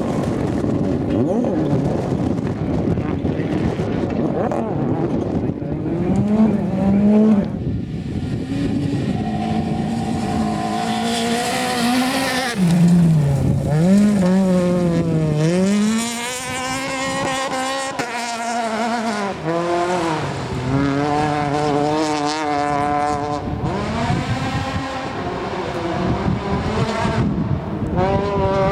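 Rally car engines at full throttle, the engine note climbing and dropping again and again with gear changes and lifts off the throttle.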